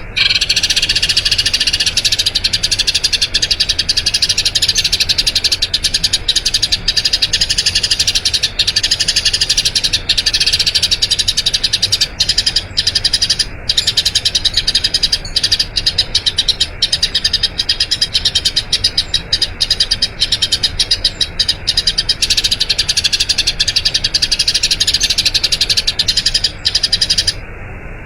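Eurasian tree sparrow chirping in a long, fast, unbroken run, cutting off abruptly near the end.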